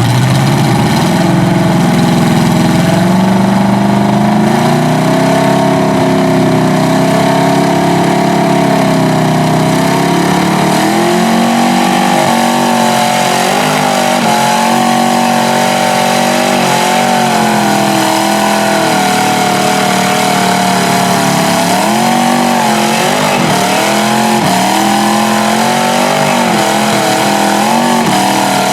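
Two-wheel-drive pickup truck engines held at high revs under heavy load as the trucks pull against each other. The pitch wavers, then dips and surges several times in the last third.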